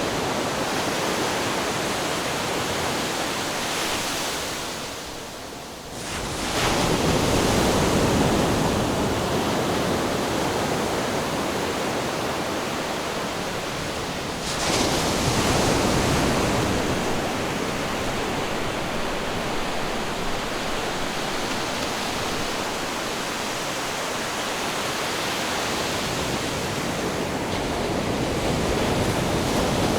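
Ocean surf rushing steadily, with a short lull and then a fresh wave breaking about six seconds in, and another surge about halfway through.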